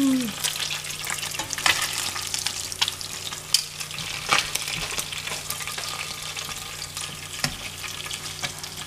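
Menpachi (soldierfish) pan-frying in garlic butter: a steady sizzle with scattered crackles and pops.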